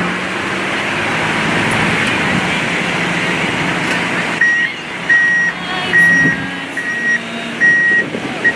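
Vehicle reversing alarm beeping, about six even beeps starting about halfway, over a steady rushing background noise.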